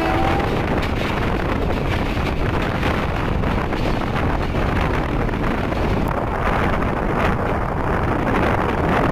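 Passenger train running along the track: a steady rumble with wind buffeting the microphone. The locomotive's horn cuts off just after the start.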